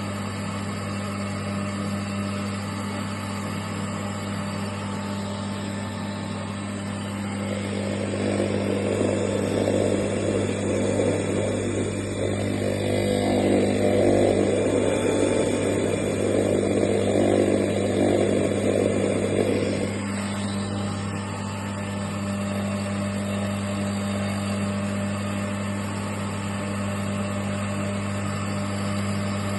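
Electric stone grinder for sesame tahini, driven by a 1.1 kW motor, running with a steady hum. From about seven seconds in until about twenty seconds a louder, coarse grinding noise rides over the hum, then drops back to the hum alone.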